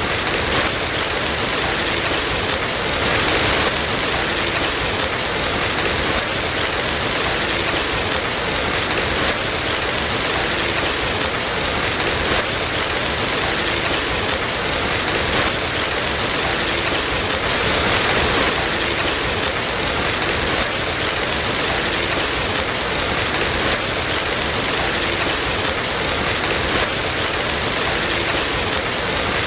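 Steady, dense rainfall hissing evenly, swelling slightly a few seconds in and again about halfway through.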